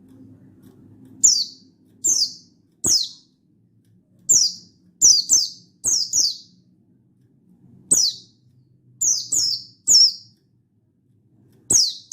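Buxtoni white-eye (pleci) giving sharp, short call notes that slide down in pitch, about fourteen of them, singly or in quick pairs with short gaps between.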